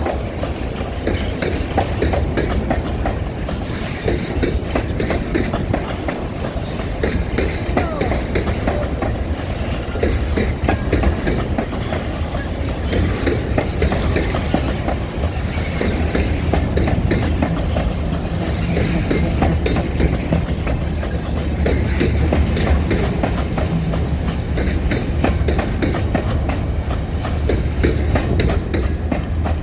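Freight train rolling on, its wagons' wheels clattering over the rail joints in a continuous run of clicks over a steady low rumble.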